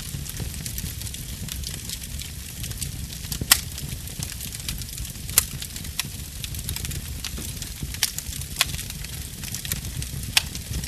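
Burning wood fire crackling steadily over a low rush of flame, with a few sharper pops from the wood, four of them louder than the rest.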